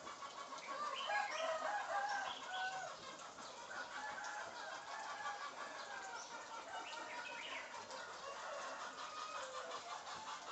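African grey parrot giving a run of short pitched calls, busiest and loudest in the first three seconds, then scattered calls.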